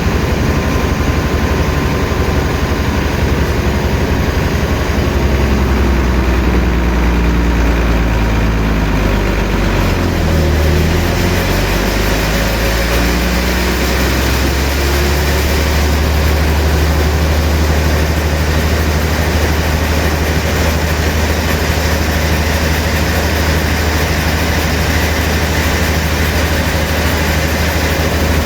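Sawmill machinery running: a steady, loud, heavy engine-like drone under a constant high hiss. About ten seconds in, the low tone dips and climbs back, as the machine's load changes.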